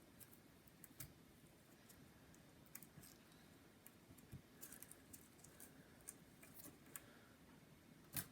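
Near silence with faint, scattered small clicks and light scrapes of hands working a ribbon-cable connector inside an opened plastic unibody MacBook, with one sharper click near the end as the display connector comes loose.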